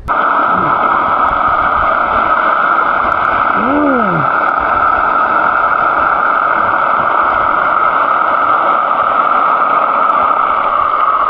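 Steady, loud rushing hiss of water on a submerged camera while snorkelling, with one brief muffled tone that rises and falls about four seconds in.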